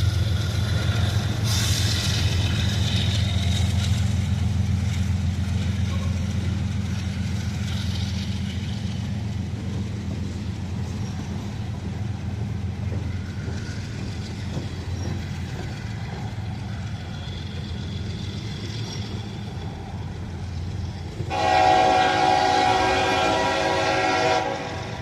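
Train rolling by with a steady low rumble that slowly fades, then a locomotive air horn sounds one loud blast of about three seconds near the end.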